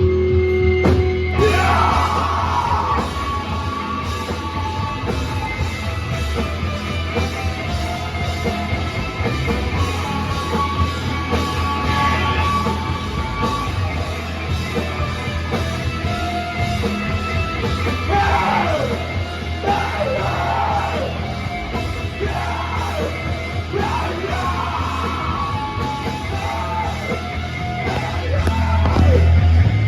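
Live rock band playing loudly, with yelled, shouted vocals over the music.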